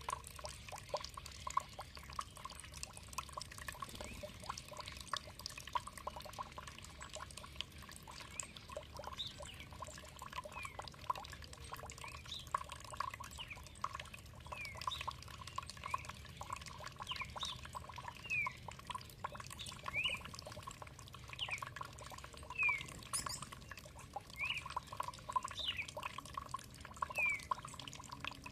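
Running water trickling and dripping steadily, with short bird chirps coming in repeatedly from about a third of the way through.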